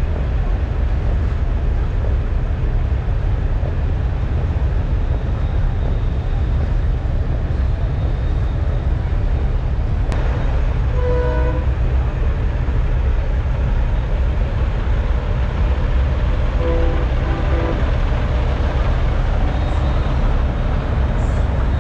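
Diesel semi-truck engines idling with a steady low rumble. Short horn toots sound about halfway through and again a few seconds later.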